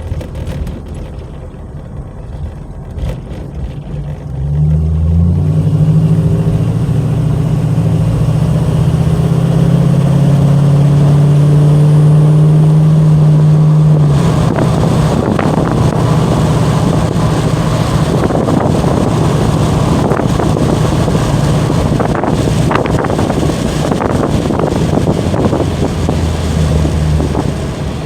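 1979 Chevrolet Camaro Berlinetta driving. Its engine comes in with a steady low hum about four seconds in, then gives way about halfway through to a rushing noise of tyres and wind that eases off near the end.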